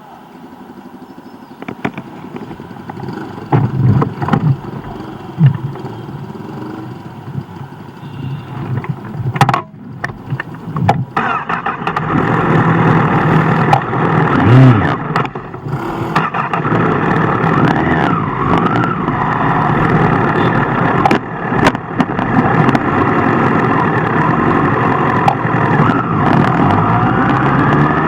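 Superbike engine running and revving, its pitch rising and falling. It is quieter with a few sharp revs at first, then louder and steady from about halfway through.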